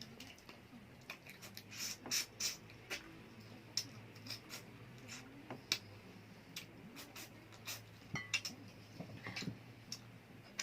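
Cutlery and dishes clinking during a meal: irregular light clicks and taps of utensils against plates, over a low steady hum.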